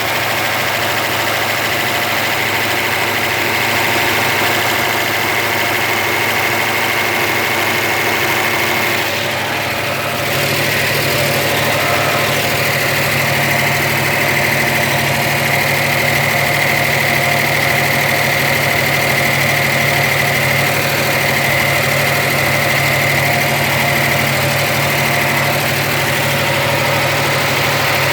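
Oldsmobile engine idling steadily. About ten seconds in it dips briefly, then settles at a slightly faster idle.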